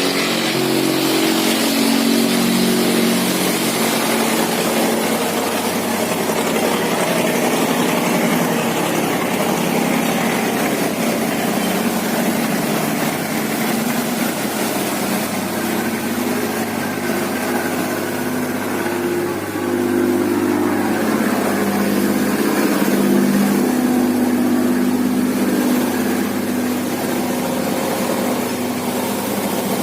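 Several boat engines running at once as boats pass close by, their overlapping engine notes shifting as one boat gives way to the next.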